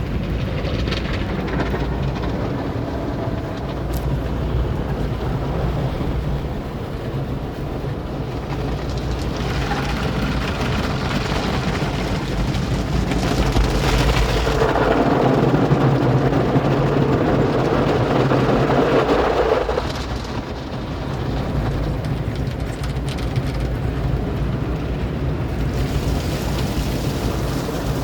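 Car wash running: water spraying against the car over a steady low mechanical hum. The spray swells louder for several seconds about halfway through, then drops back.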